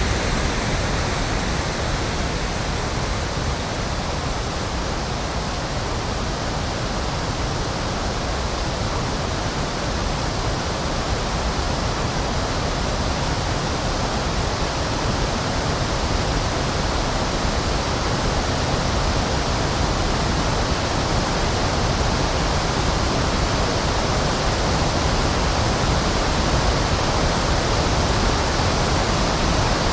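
Electronically generated pink noise: a steady, even hiss with a full low end, like a waterfall or the sea, with a slow, gentle shift in its brightness.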